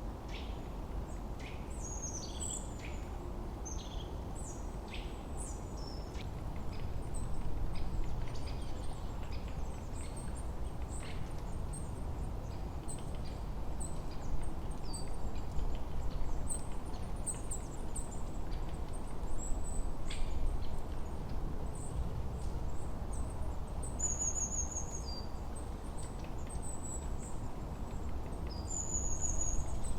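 Songbirds chirping and calling in many short, high notes, with a couple of quick high trills near the end, over a steady low rumble of wind.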